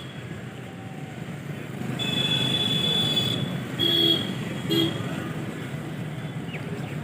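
Road traffic noise with vehicle horns sounding, including two short honks about four and five seconds in.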